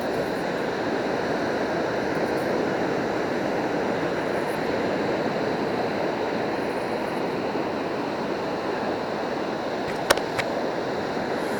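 Steady wash of surf on the beach, with two sharp clicks close together about ten seconds in.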